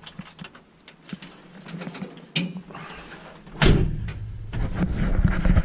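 1959 Ford F500 truck engine on a cold start: a click, then about two-thirds of the way in the starter engages suddenly and the engine turns over and runs with a loud, pulsing low rumble. The automatic choke has just been set by one stab of the gas pedal.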